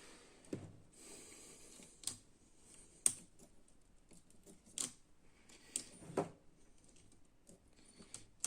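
A few irregular sharp clicks and light knocks, about six spread over several seconds, from small hard parts being handled.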